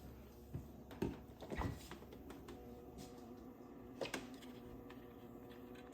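Frigidaire five-door refrigerator running with a steady low hum, with a few light knocks and clicks, about one, one and a half, and four seconds in.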